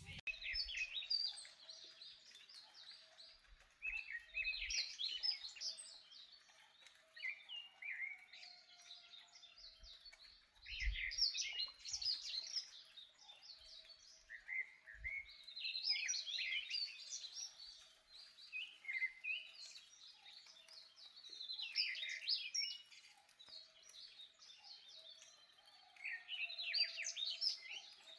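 A songbird singing quick, chirpy phrases that repeat roughly every five to six seconds.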